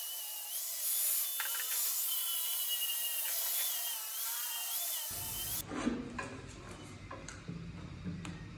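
Power tool working wood, a high whine that wavers in pitch over a steady hiss. About five seconds in, it cuts abruptly to rough rubbing and scraping on wood, with a few sharp knocks.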